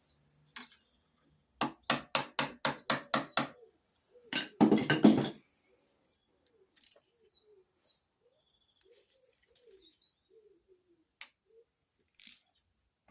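A quick run of about nine sharp metallic clicks, then a louder rattling clatter about a second later, from hand tools working on the engine's bolts. Birds chirp faintly.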